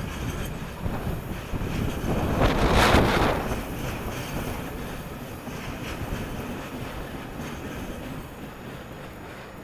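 Strong wind buffeting the microphone over the low rumble of a departing freight train of tank wagons, with a loud gust about three seconds in; the train sound then fades steadily.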